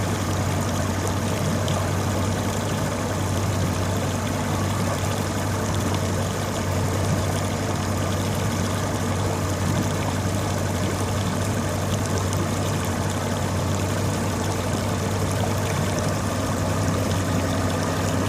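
Tow boat's engine running steadily with an even low hum, pulling on the lines, over the rush and splash of churned water.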